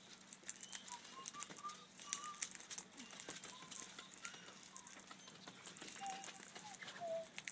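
Australian king parrots giving soft, short whistled notes, a few at a time throughout, over faint scattered clicks and ticks.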